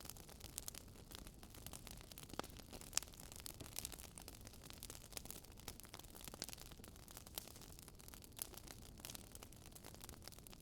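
Wood fire crackling in a fireplace: a soft, steady hiss with irregular sharp pops and snaps, several a second, the sharpest at about three seconds in.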